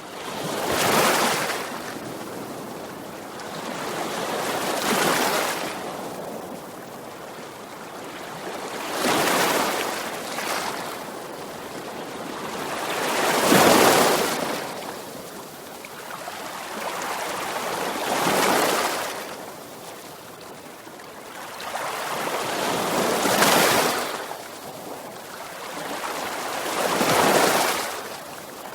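Ocean waves breaking and washing up the shore, the rush of surf swelling and fading about every four to five seconds, seven times.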